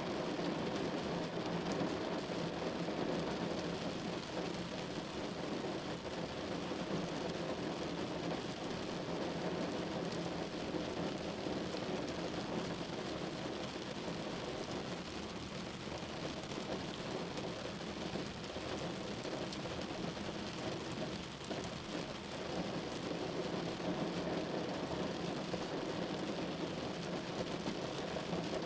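Steady storm noise, an even rushing of wind and falling precipitation that never breaks.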